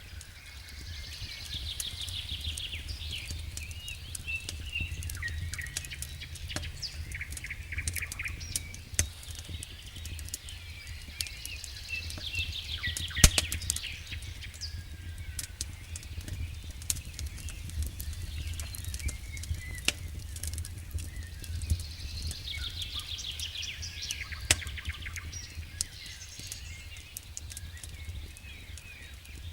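Wood fire crackling in a fireplace, with scattered sharp pops, the loudest about thirteen seconds in, over a steady low rumble. Songbird chirps and trills recur about every ten seconds.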